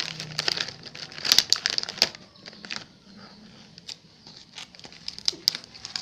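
Plastic packaging being crinkled and handled, a quick run of sharp crackles that is dense for the first three seconds and sparser after.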